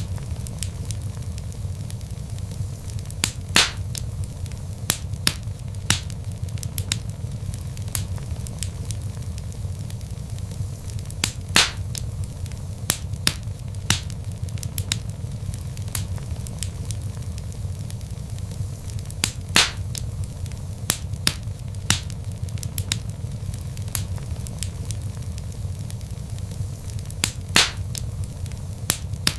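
Log fire crackling, with a steady low rumble of flames under frequent small snaps and a few louder pops about every eight seconds.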